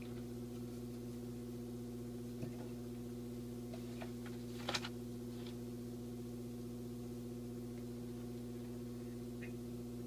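Steady electrical hum, a low buzz made of several even tones that does not change, with a few faint clicks, the clearest a little before the middle.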